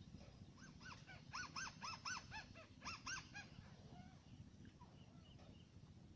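White-browed crake calling: a rapid series of about a dozen arched notes, roughly four a second, lasting about three seconds, followed by a few faint notes.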